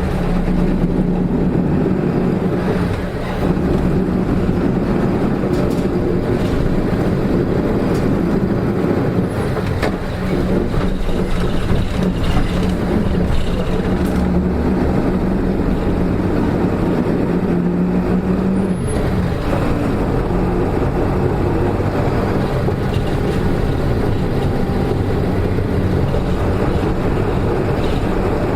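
Diesel engine of a Hino Rainbow RM (KK-RM252GSN) city bus, heard from inside the bus as it pulls away and runs. A strong steady droning tone sits over the engine and road noise and stops about 19 seconds in. The drone is a sign of the engine's abnormal running noise.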